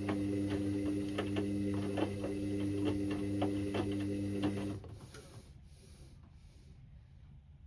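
Indesit IWC6165 washing machine tumbling its drum in the wash phase: a steady motor hum with irregular clicks and knocks from the load turning. The drum motor stops about two-thirds of the way through.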